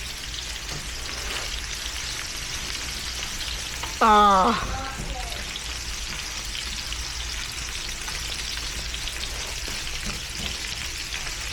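Meat and shrimp frying in a small pan: a steady, moderate sizzle with fine crackling, which the cook puts down to a small pan and a weak burner flame that leave it slow to cook. A woman's short "ah" about four seconds in is the loudest sound.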